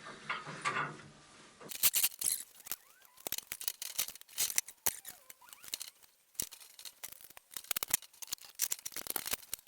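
A quick, irregular run of metal clicks and clinks as a spacer is fitted and fastened onto the steel bed bars of a Record CL3 wood lathe.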